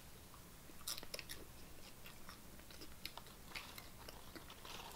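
A person chewing crunchy tortilla chips from chili-topped nachos: faint, irregular crunches, starting about a second in.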